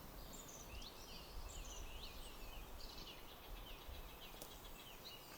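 Small birds chirping and calling, many quick rising notes, over a faint low rumble.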